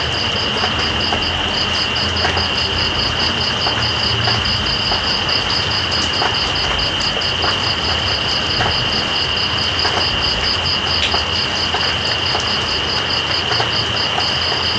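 Night insects calling over steady rain: one insect gives a continuous high trill, and another chirps in even pulses about four times a second. Beneath them runs a steady hiss.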